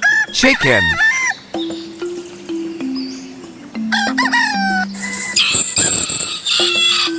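Chickens calling over light background music: a rooster crowing in pitched calls, then a noisier stretch of squawking and clucking near the end.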